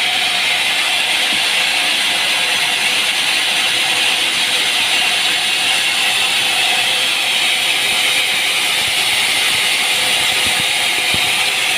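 Sawmill machinery running with a steady, even noise that is strongest in the upper-middle range and has little bass.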